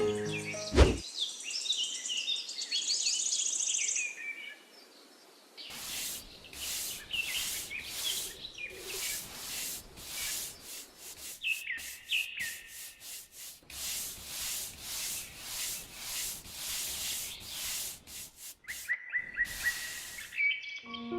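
Repeated rubbing or scraping strokes, about two a second, typical of hand sanding or rasping wood, with birds chirping at the start and again near the end.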